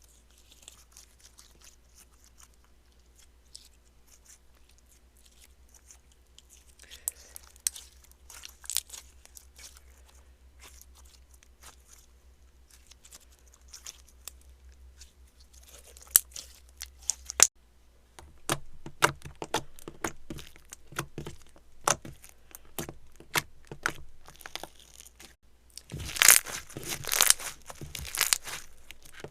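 Slime being worked by hand, giving crackling and sharp clicking pops. It is faint for the first few seconds, and the pops grow louder and more frequent in the second half, thickest near the end.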